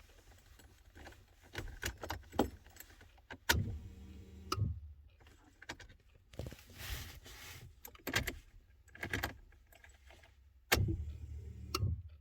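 Ignition keys jangling and clicking in a Mercedes SL500, with two brief low hums, one about three and a half seconds in and one near the end. The hums are the fuel pump running on its new aftermarket relay, a sign the relay works.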